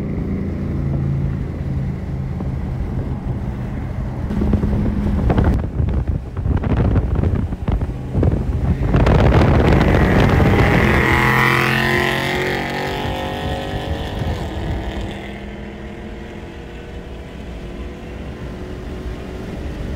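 Dodge Hellcat's supercharged 6.2-litre V8, heard from inside the car: running steadily, then opened up about five seconds in and building to its loudest around ten seconds with a high whine on top, after which the engine note drops away and settles to a steady cruise.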